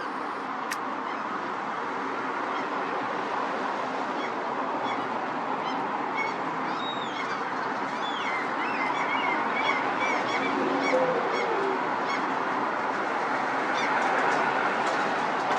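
Gulls calling: series of short, high cries in the middle of the stretch, over a steady outdoor background hiss.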